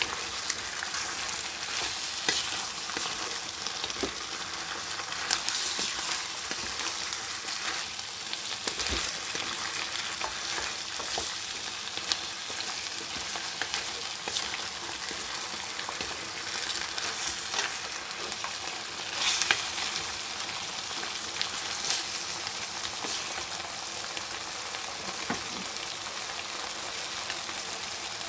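Chicken wings and onions sizzling in a stone-coated nonstick frying pan: a steady hiss. A wooden spatula stirs them, with a scattering of short clicks as it knocks and scrapes against the pan.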